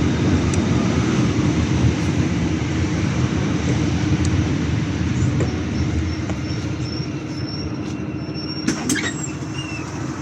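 City bus running, heard from inside the cabin: a steady engine and road rumble that slowly eases off, with a row of short high squeaks in the second half and a couple of clicks near the end.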